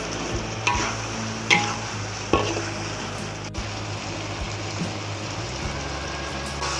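Chopped onions and tomatoes sizzling as they fry in oil in a pan, with a spatula scraping through them three times in the first couple of seconds.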